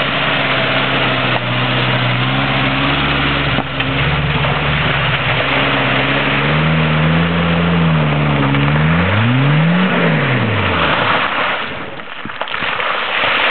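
Suzuki SJ413's 1.3-litre four-cylinder petrol engine pulling under load, its note steady at first, then wavering up and down. About ten seconds in, the revs sweep sharply up and fall away again.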